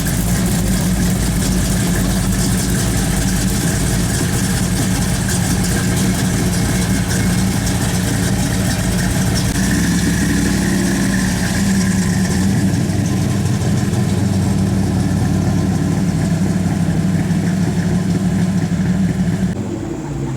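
A car engine idling steadily, its sound dropping off and changing shortly before the end.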